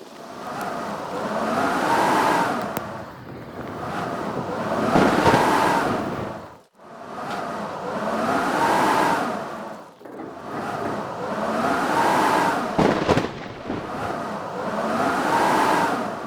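Howling blizzard wind, gusting in repeated swells that rise and fall in pitch about every three seconds.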